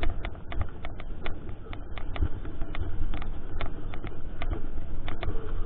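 Mountain bike rattling over rough trail: a quick, irregular run of sharp clicks and knocks from the bike and its mount, over a steady low rumble of wind on the camera microphone.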